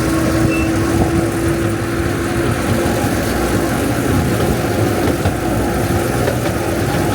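Steady engine hum and rumble of a moving vehicle, with a constant mid-pitched drone.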